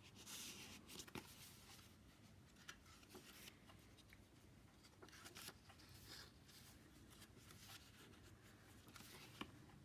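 Near silence with faint rustling and light clicks of paper and card being handled, as the pages and tags of a handmade paper lap book are turned over.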